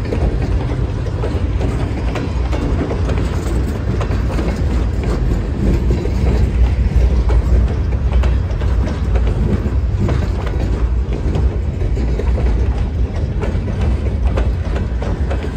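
Wisconsin & Southern freight train rolling past: a loud, steady rumble with the wheels clicking irregularly over the rails.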